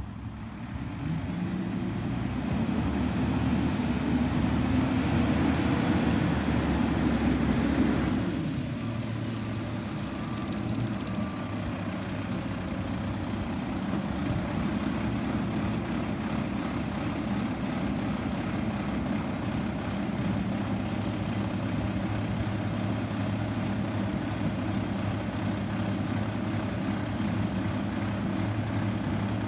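Garbage truck's engine running, louder for about the first eight seconds, then dropping back to a steady idle.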